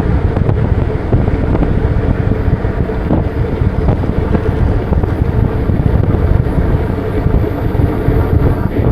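Steady wind rumble buffeting the microphone of a moving bike.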